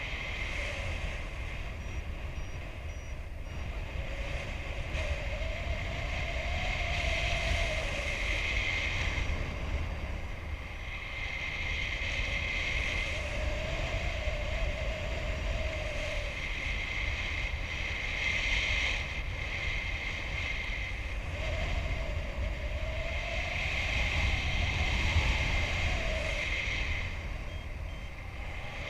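Wind rushing over the microphone of a paraglider pilot in flight: a steady low rumble with a hiss that swells and fades every few seconds, and a faint wavering whine that rises and falls now and then.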